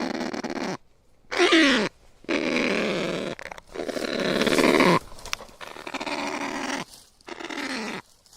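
Kakapo calling: a series of about six harsh, rasping calls, each half a second to over a second long, some falling in pitch, with the loudest about one and a half seconds in and again around four to five seconds in.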